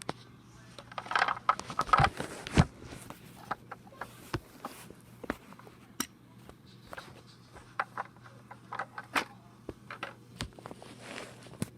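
Irregular clicks, knocks and scrapes of small objects being handled, louder and busier in the first two or three seconds, over a steady low hum.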